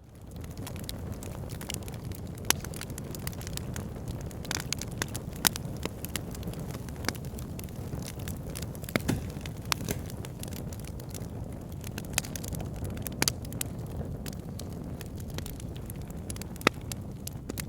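Backyard fire pit burning, with irregular sharp crackles and pops over a steady low rumble.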